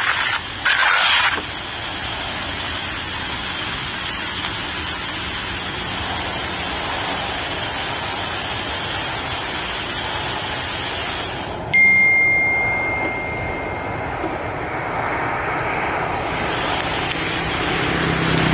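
Steady hiss, with a single clear ding about twelve seconds in that rings out over about two seconds; a low rumble builds near the end.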